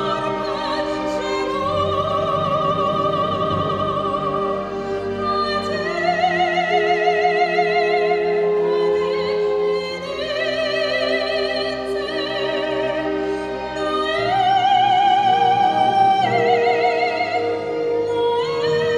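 Classical music: a high solo voice singing in operatic style, holding long notes with a strong vibrato and stepping up in pitch every few seconds, over a steady sustained accompaniment.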